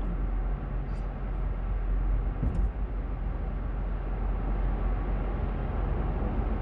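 Steady road and engine noise inside a moving car's cabin, mostly a low rumble, with a couple of faint clicks about one and two and a half seconds in.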